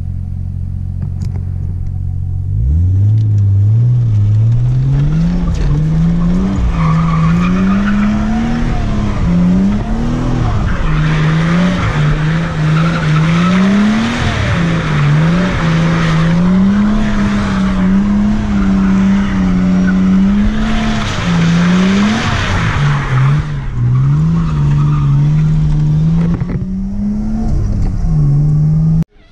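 Nissan Skyline R33's engine heard from inside the car, idling briefly and then revving hard, its pitch climbing and dropping again and again as it is driven hard. Two stretches of tyre squeal come over it around the middle as the car skids. The sound cuts off suddenly near the end.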